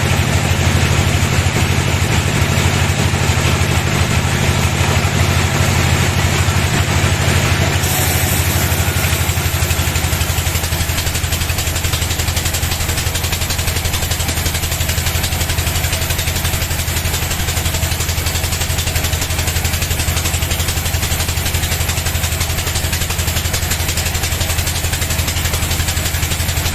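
Sawmill bandsaw machinery running steadily with a low, even engine-like hum. About eight seconds in, a brighter hiss joins and stays.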